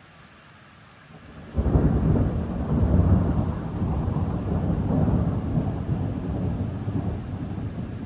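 Steady rain, then about one and a half seconds in a thunderclap breaks and rolls on as a long, deep rumble that slowly fades.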